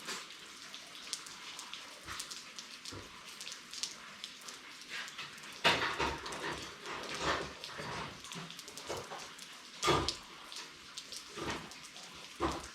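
Rain pattering, heard as a dense run of fine ticks. From about six seconds in, several louder sudden sounds break in over it.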